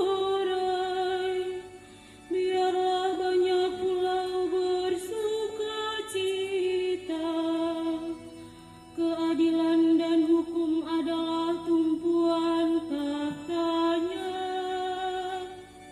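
Church choir singing a slow, chant-like hymn in long held phrases, with short breaths between phrases about two seconds in, about eight seconds in and at the end.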